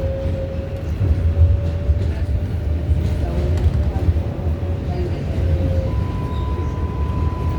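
R188 subway car of a 7 train running between stations: a steady low rumble with a motor whine that slowly falls in pitch, and a higher steady tone that starts about six seconds in.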